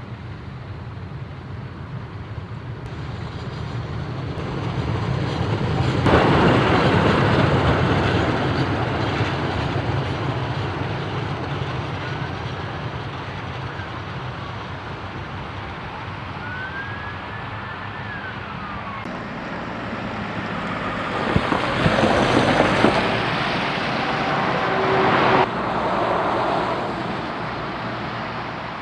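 Freight train moving at a railway level crossing during shunting: a steady low rumble of locomotive and rolling wagons that swells about six seconds in and again near the end. Two faint rising-then-falling squeals are heard midway.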